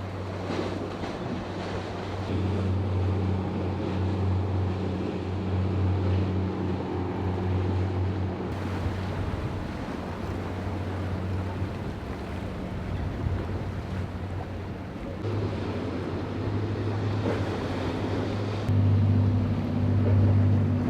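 Boat engines running with a steady low hum through the inlet, over waves and wind buffeting the microphone. The engine sound grows louder near the end.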